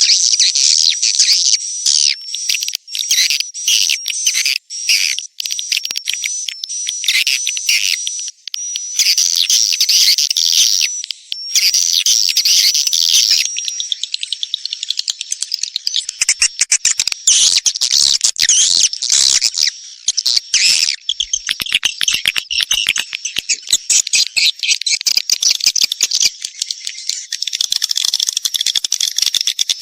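Swiftlet calls played as a swiftlet-house lure track: a dense, high-pitched twittering chatter with rapid clicks, over a steady high tone through the first half.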